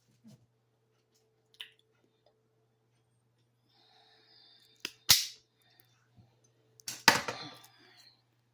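A few sharp knocks and clicks from objects being handled, two of them loud: one just after five seconds in and one about seven seconds in, the second trailing off in a short rattle.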